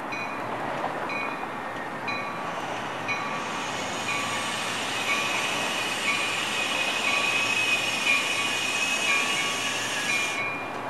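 Metra commuter train slowing into a station. From about three and a half seconds in, a high-pitched squeal rises from the wheels and brakes and stops abruptly about half a second before the end. A short high ding repeats about every 0.7 seconds throughout.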